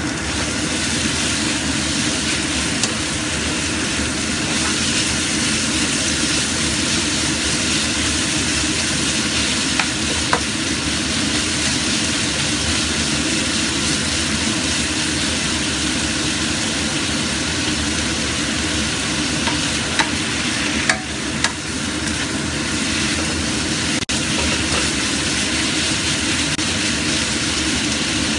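Diced chicken, garlic slices and shallots sizzling steadily as they are stir-fried in a wok, a spatula stirring them, with a few light clicks of the spatula against the pan.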